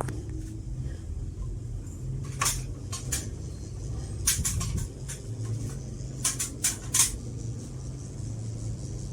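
HTC FC06-600 mini ceiling fan running with a steady low hum. A few sharp clicks come through: once about two and a half seconds in, then small clusters a little past four seconds and between six and seven seconds.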